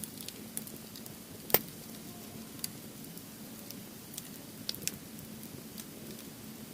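Firewood crackling in a campfire, with scattered sharp pops over a low steady hiss; the loudest pop comes about a second and a half in, and a few more come close together near the end.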